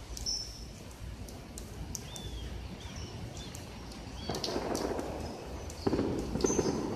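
Birds chirping and calling in short high notes and little whistled glides, with scattered sharp clicks over a low background hum. A rougher rushing noise swells in the second half.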